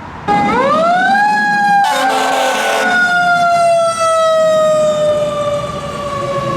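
Emergency vehicle siren starting up, a wail that climbs over about a second, with a horn blast of about a second cutting across it about two seconds in; the wail then falls slowly.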